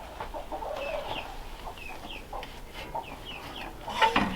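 Chickens clucking softly with many short falling chirps, and one louder call about four seconds in.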